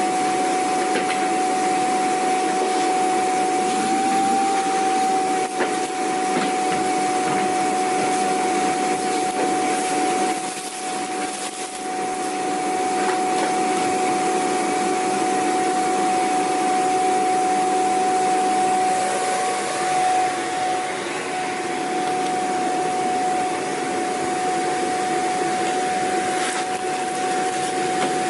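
Vacuum cleaner running steadily: a constant motor whine over a rushing hiss of air, dipping slightly in loudness about ten seconds in.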